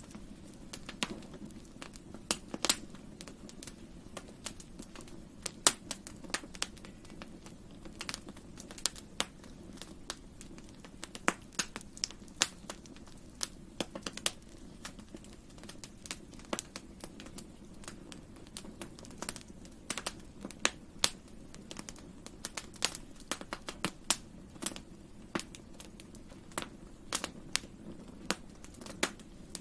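Wood campfire burning: sharp, irregular crackles and pops, several a second at times, over a low steady rumble of the flames.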